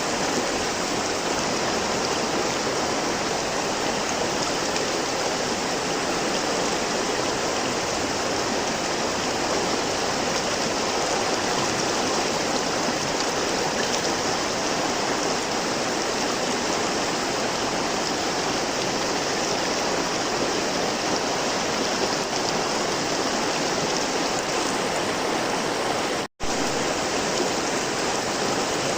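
River water flowing steadily, a continuous rushing and splashing. It cuts out for an instant about 26 seconds in.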